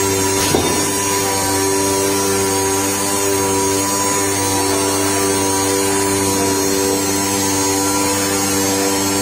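AOKE DCZ76 flatbed digital cutting machine running: a steady mechanical hum made of several held tones, with a brief knock about half a second in.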